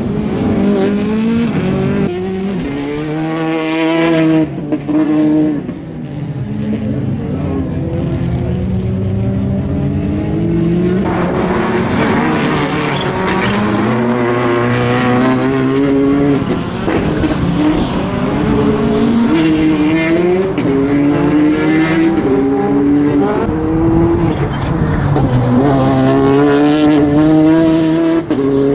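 Citroën DS3 R3 rally car's turbocharged four-cylinder engine revved hard through the gears, its pitch climbing and dropping back again and again as it accelerates and brakes between slalom turns.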